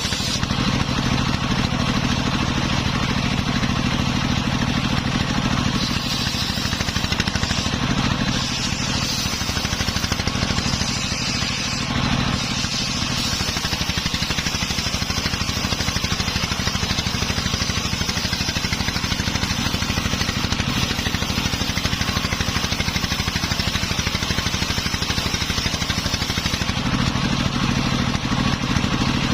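Engine-driven homemade circular saw running steadily while sawing a coconut-palm trunk. The engine's low hum stays even, while the higher cutting noise varies and eases near the end.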